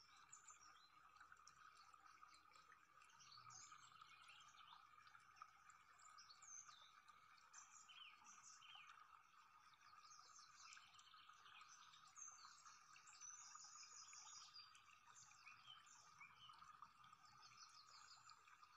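Near silence, with faint bird chirps and twitters over a faint steady high hum.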